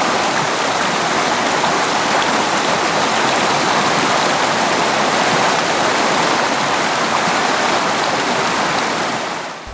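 A straight-drop waterfall about ten metres high, running full the day after monsoon rain: a steady, loud rush of falling water, fading out just before the end.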